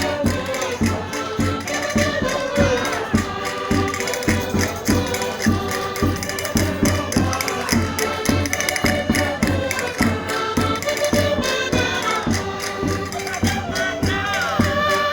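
Concertinas playing Portuguese folk music over a steady percussion beat, with voices singing along.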